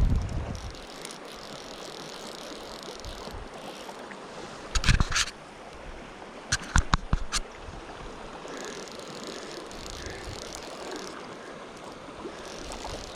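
River water rushing steadily. A short cluster of loud knocks comes about five seconds in, and a quick run of four or five sharp clicks about seven seconds in.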